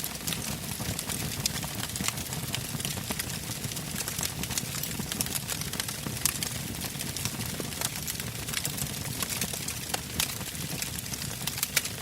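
Wood campfire burning, its logs crackling with frequent sharp, irregular pops over a low steady rumble of flame.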